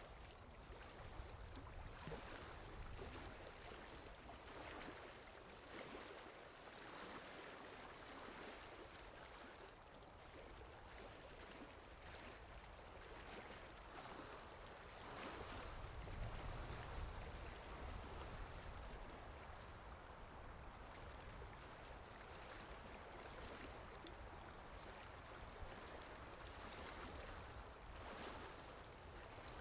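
Steady rain falling, a quiet even hiss of drops. A low rumble swells up about halfway through and fades again.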